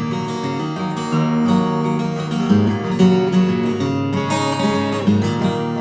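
Acoustic guitar strumming chords steadily in an instrumental break of a folk song, with no singing.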